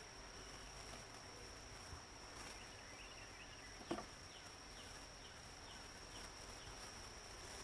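Faint outdoor ambience with a steady high-pitched insect drone, with a single sharp click about four seconds in.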